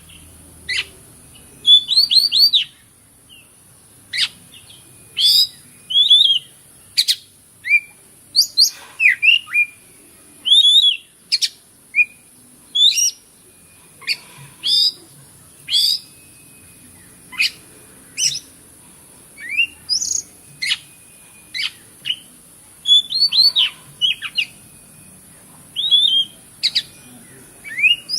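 Oriental magpie-robin (kacer) singing: a run of short whistled notes and sharp down-sweeping chirps, coming about once a second with brief pauses. A steady high hiss runs behind it.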